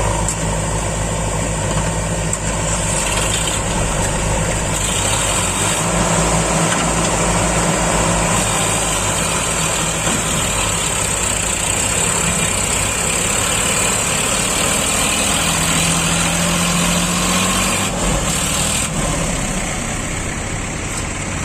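Tractor's diesel engine running steadily, its pitch shifting a little at times.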